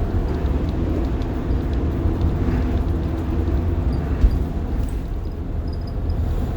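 Rear-mounted diesel engine of a 1990 Blue Bird All American school bus running, heard from inside the bus as a steady low rumble with cabin and road noise, and a single brief knock about four seconds in.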